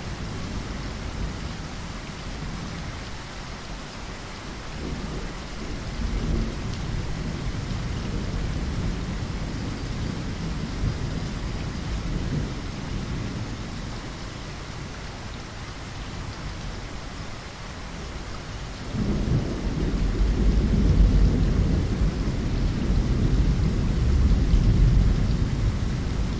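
Steady heavy rain with rolling thunder. A low rumble sounds through the first half, and a louder rumble of thunder starts about 19 seconds in and rolls on.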